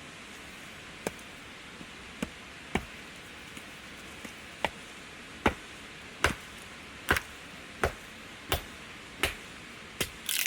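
Firewood being chopped: a steady run of sharp strikes, about one every three-quarters of a second, getting harder from about halfway in.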